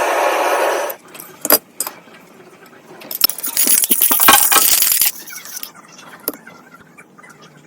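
A loud steady machine-like noise stops about a second in. Then come small metal clicks and clinks, and a burst of hissing noise with clicks lasting about two seconds in the middle.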